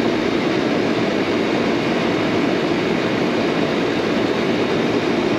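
Rooftop air-conditioning condensing unit running, its condenser fan giving a steady rush of air. The unit is running with very high head pressure (427 psi on the high side), which the technician puts down to a restriction in the line.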